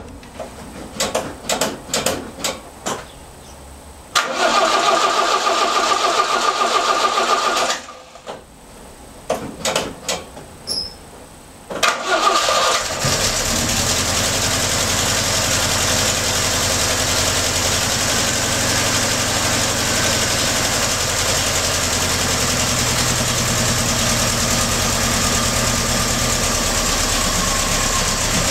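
Cold start of a 1971 Plymouth Cricket's four-cylinder engine: a few clicks, then the starter cranks for about three and a half seconds and stops without the engine catching. After more clicks, a second crank about twelve seconds in catches, and the engine settles into a steady idle.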